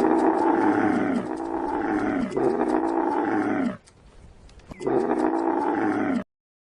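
A big cat roaring: four drawn-out calls, each falling in pitch, with a short pause before the last. The last call cuts off abruptly.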